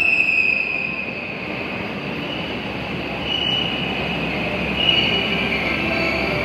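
Commuter train pulling into a station platform and slowing, its running gear rumbling steadily. A high squeal fades out about a second in and comes back briefly twice, around three and five seconds in.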